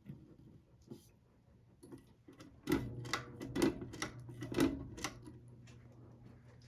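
Hampton Bay Gazebo Plus ceiling fan running with a low steady motor hum that grows stronger a little under three seconds in. It is joined by a run of about six sharp clicks, roughly half a second apart, ending about five seconds in.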